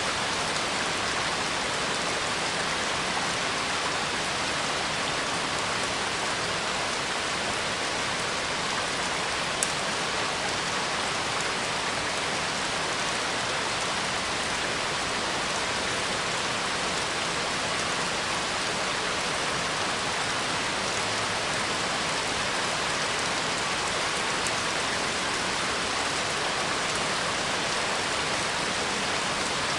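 Steady rain falling on a surface, an even hiss of drops, with a single faint click about ten seconds in.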